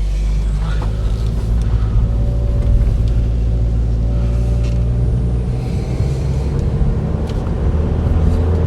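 Steady engine and road rumble inside the cabin of a 2011 Chevy Volt on the move, running on its gasoline range-extender engine because the traction battery is depleted.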